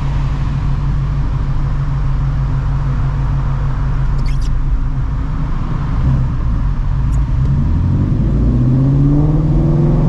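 Shelby GT350's 5.2L Voodoo V8 with long-tube headers and a Borla cat-back exhaust, heard from inside the car with its exhaust valves shut in weather mode. It runs at a steady cruise drone, then accelerates with a rising engine note from about seven seconds in.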